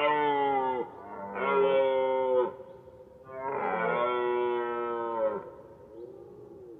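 Cattle mooing: three long moos in a row, the third the longest, then a fainter moo near the end.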